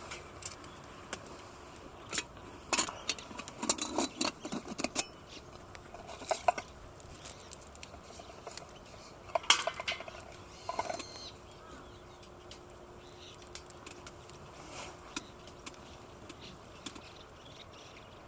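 Irregular clinks and rattles of metal camping gear being handled, in a cluster a few seconds in and another burst about ten seconds in.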